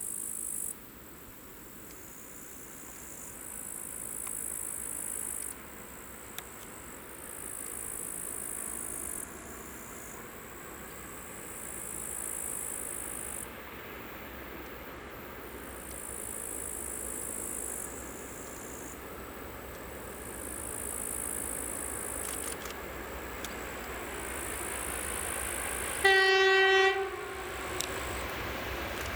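A 2TE10MK diesel locomotive with a freight train approaching, its rumble slowly growing louder, then one loud horn blast of about a second near the end. High-pitched insect chirring comes in pulses every couple of seconds.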